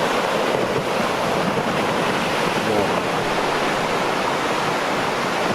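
A massive block of mountain breaking off and falling: a steady rushing roar of rock and debris coming down.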